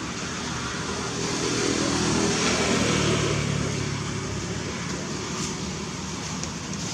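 Steady road traffic noise, with a motor vehicle passing by: it grows loudest about two to three seconds in, its pitch falling as it goes past, then fades back.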